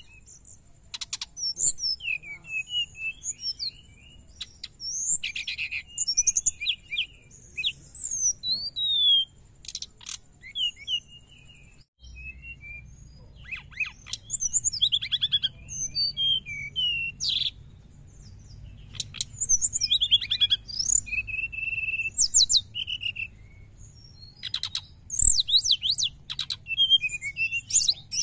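Brown-chested jungle flycatcher (sikatan rimba dada coklat) singing a fast, chattering song of varied chirps, short trills and sliding whistles, in quick bursts with brief gaps.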